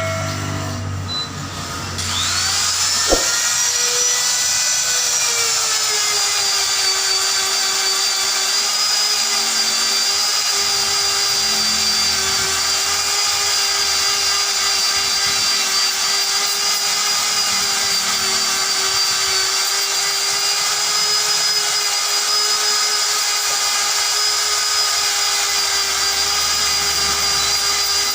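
Handheld power tool spinning up about two seconds in with a rising whine, then running steadily at full speed.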